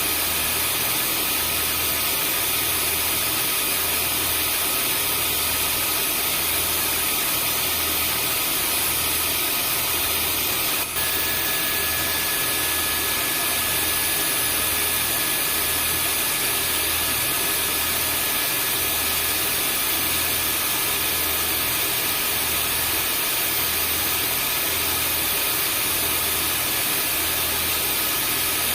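Vacuum cleaner running steadily: an even rushing whoosh over a low, regularly throbbing motor hum. About eleven seconds in there is a momentary dropout, after which a thin steady high whine joins the sound.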